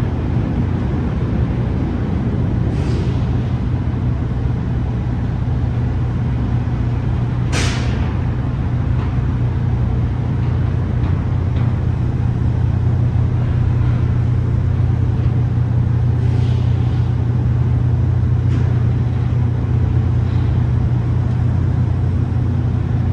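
Semi truck's diesel engine running with a steady low drone, with short air-brake hisses about three and eight seconds in, the second the loudest, and fainter ones later.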